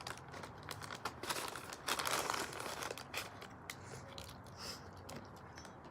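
Paper fast-food wrapping crinkling and rustling, handled in irregular crackles with a denser stretch about two seconds in.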